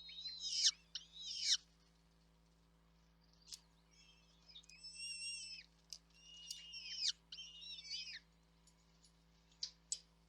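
Chicks in a nest giving high-pitched begging calls in several bursts of a second or two, with a pause around two to four seconds in and a few short sharp chirps near the end.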